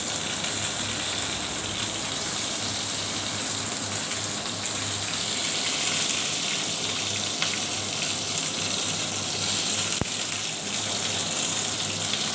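Lumpia (Filipino spring rolls) frying in hot oil, a steady sizzle.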